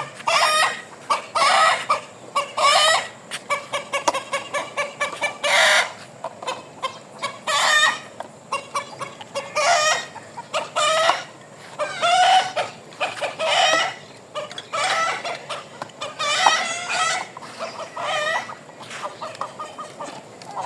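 A bird calling over and over: harsh, pitched squawking calls every second or so, with a quick run of short clucking calls about four seconds in.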